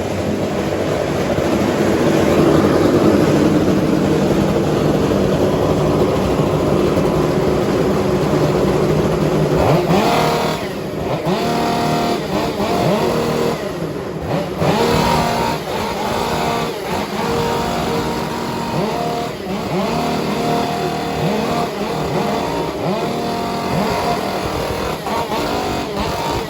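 Several Stihl 500i two-stroke chainsaws with aftermarket bark-box mufflers running together. For about the first ten seconds they run loud and near full throttle. After that they are revved up and down, each holding and gliding between different pitches, to make a rough tune.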